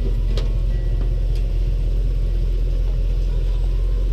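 Airboat's engine and propeller running at a steady, even drone, with a couple of faint short knocks about half a second and a second and a half in.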